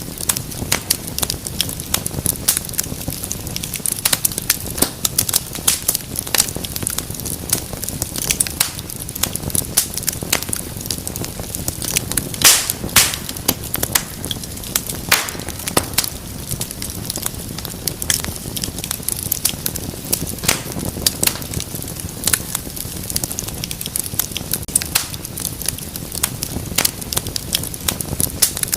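Wood fire crackling in a fireplace: irregular sharp pops and snaps over a steady low rumble of flame, with a few louder pops about halfway through.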